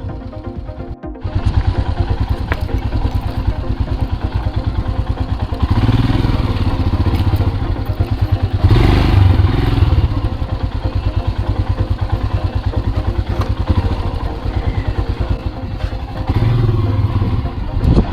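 About a second of music, then a single-cylinder motorcycle engine running on a rough off-road descent. It pulses steadily and swells louder three times as the throttle is opened.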